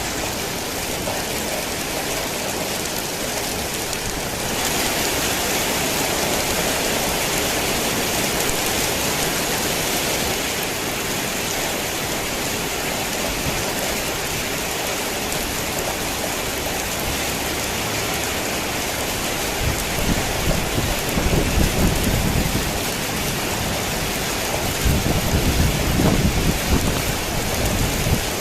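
Heavy rain falling on a tin roof, a steady hiss that grows louder about four seconds in. Thunder rumbles low about twenty seconds in and again near the end.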